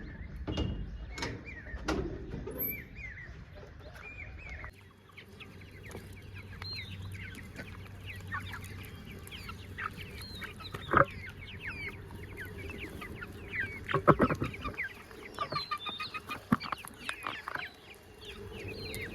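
Desi chickens clucking and chirping in a poultry pen, many short calls overlapping. A few sharp knocks stand out about halfway through and again a little later.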